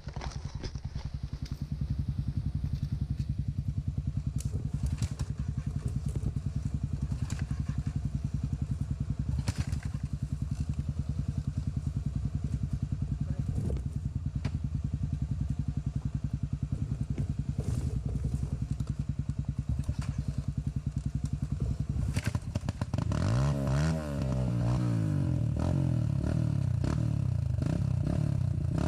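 Single-cylinder trail motorcycle engine running at a steady idle with a few clatters, then revved, its pitch climbing and swinging up and down, from about 23 seconds in.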